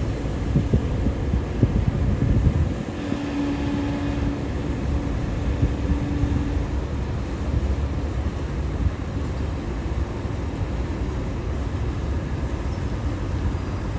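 Steady low rumble of a river car ferry under way, its engine running and vehicles aboard. A single steady tone joins it about three seconds in and holds for nearly four seconds.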